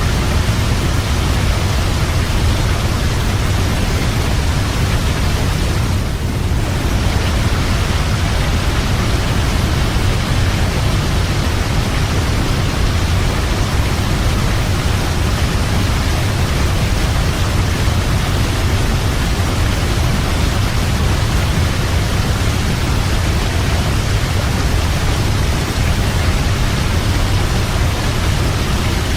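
Waterfall: a steady, loud rush of falling water, deepest in the low rumble.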